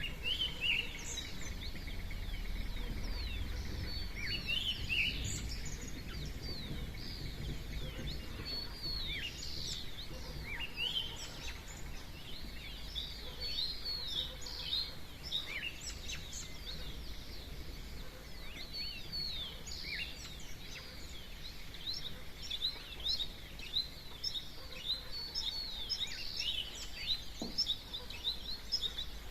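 Dawn chorus of many small birds chirping and twittering at once, a dense run of short, quick high notes throughout, over a steady low rumble.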